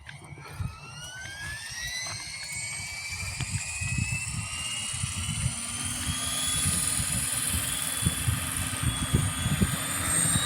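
Scale RC Airbus H145 model helicopter spooling up: the motor and rotor whine rises in pitch over the first several seconds and then holds steady, over a gusty low rumble.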